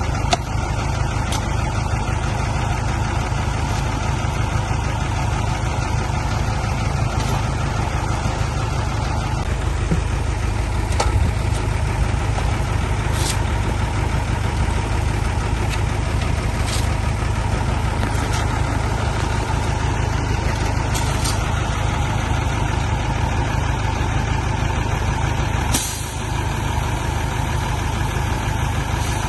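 Heavy diesel engine running steadily with a strong low rumble, with a few brief sharp clicks or hisses over it, the loudest near the end.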